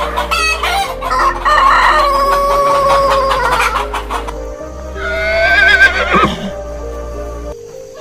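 Rooster crowing twice, first about a second in and again about five seconds in, each a long drawn-out call that falls away at the end, over background music.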